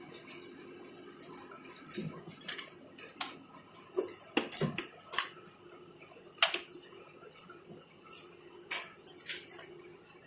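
Small metal repair tools and phone parts clicking and tapping against each other irregularly, a dozen or so light clicks with the sharpest about six seconds in, over a faint steady hum.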